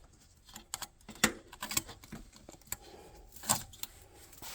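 Scattered small clicks and light rattles of hands handling the furnace's flame sensor wiring and nearby metal parts, with the sharpest clicks about a second in and again about three and a half seconds in.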